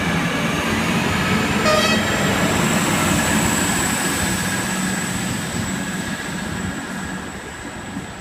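Hunter diesel railcar set pulling away from the platform: a steady diesel engine hum and a high whine, fading as it leaves. A brief horn toot sounds about two seconds in.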